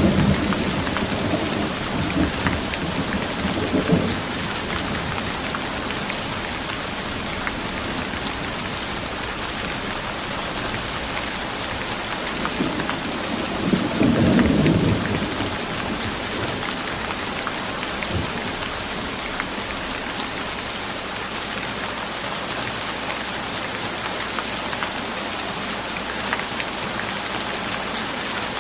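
Steady heavy rain falling, with rolling thunder: one rumble dies away over the first few seconds and another rises and fades about halfway through.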